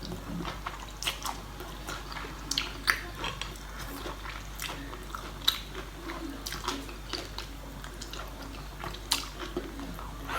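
A person eating at close range: biting and chewing food, with irregular small crunches and wet clicks.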